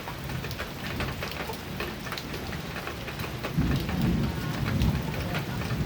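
Heavy rain falling on a metal roof, with many sharp individual drop hits. A low rumble of thunder rolls in about three and a half seconds in.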